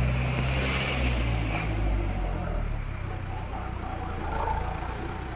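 A motor vehicle's engine running, a steady low rumble that slowly fades.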